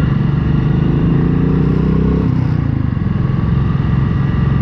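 Single-cylinder motorcycle engine running on the road, its pitch climbing for about two seconds as it accelerates, then dropping back.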